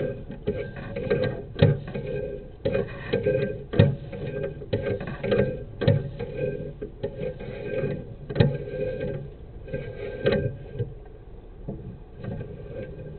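Sewer inspection camera equipment being worked in the line, with irregular clicks and knocks from the push cable and camera head. The knocking eases off about eleven seconds in.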